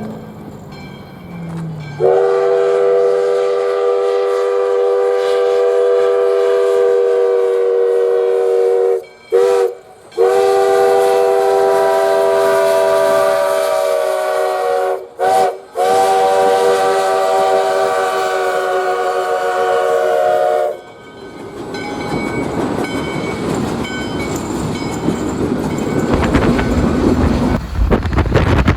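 US Sugar steam locomotive #148's whistle blowing a chord of several tones in long blasts, broken twice by short toots. After the whistle stops, the train's running noise swells.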